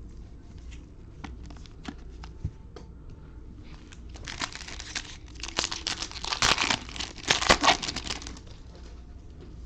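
A trading-card pack's plastic wrapper being handled and torn open, with light clicks and taps at first, then about four seconds of loud crinkling and ripping.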